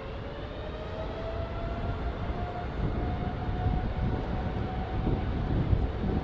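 Aircraft engines accelerating for take-off: a whine rising in pitch for the first few seconds, then holding, over a low roar that grows steadily louder.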